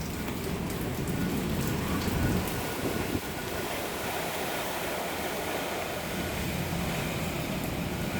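Typhoon wind and rain making a steady rushing noise with a deep low rumble, swelling a little about two seconds in.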